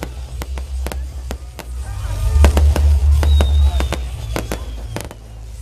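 Fireworks going off in a rapid series of sharp bangs and crackles, coming thicker near the end, over loud music with heavy bass.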